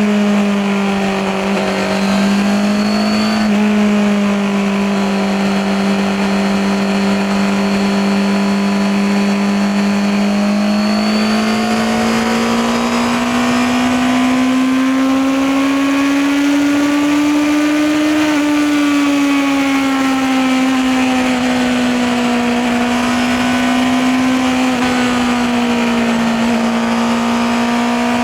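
Honda CBR650R's 649 cc inline-four engine and exhaust under way at a steady mid-range speed. About a third of the way in the engine note climbs slowly as the throttle is opened, then eases back and holds steady again.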